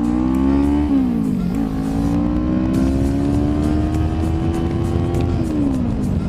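Kawasaki Ninja 400's parallel-twin engine accelerating with gear changes. The pitch climbs, drops sharply as it shifts up about a second in, then climbs steadily for several seconds before another drop near the end, over a low rumble of wind and road.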